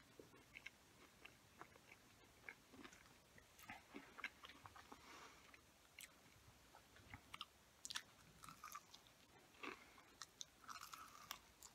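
Faint chewing of a breaded fried chicken tender: soft, irregular mouth clicks and smacks.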